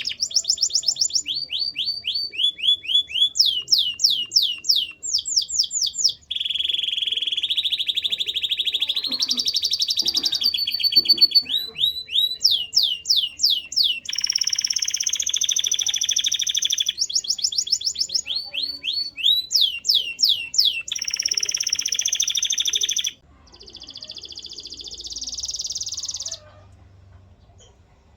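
Male domestic canary singing: runs of rapid repeated falling notes alternating with fast rolling trills, turning quieter about 23 seconds in and stopping shortly before the end.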